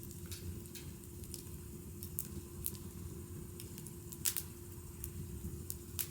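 Wood fire crackling, with irregular sharp pops, the loudest a little past the middle.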